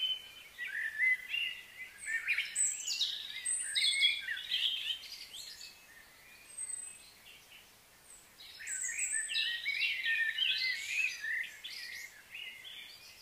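Several birds chirping and calling in quick, overlapping phrases, with a quieter lull in the middle.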